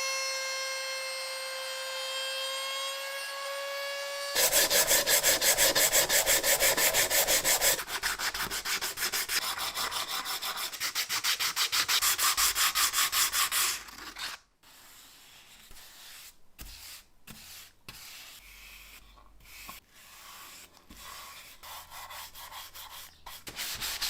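A steady high-pitched whine for about four seconds, then fast, even rubbing strokes of sanding on a part for about ten seconds, followed by fainter, broken scraping and handling sounds.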